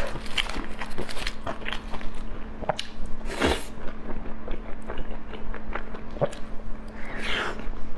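Close-miked eating: wet chewing and biting with many small clicks and smacks, and two longer, louder noisy sounds, one about three and a half seconds in and one near the end.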